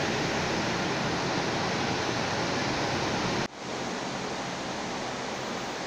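Steady hiss of heavy rainfall. About three and a half seconds in it breaks off for an instant and comes back a little quieter.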